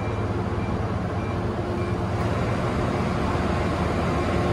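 COASTER commuter train's diesel locomotive rumbling steadily as the train starts to pull out of the station, growing slightly louder. Faint short high beeps repeat during the first two seconds.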